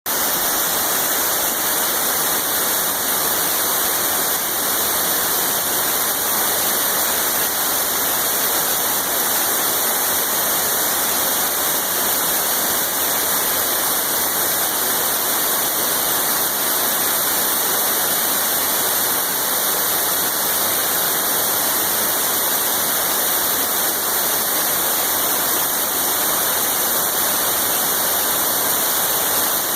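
A waterfall pouring steadily: an even rush of falling water, strongest in the high hiss, with no change in level.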